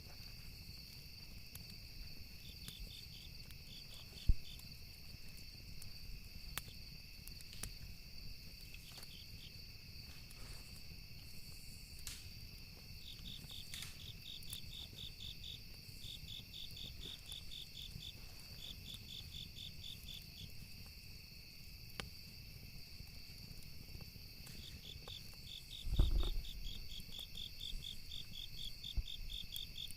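Crickets chirping steadily in rapid pulsed trills over a constant high drone, with faint scattered pops of crackling campfire wood. A single low thump about 26 seconds in.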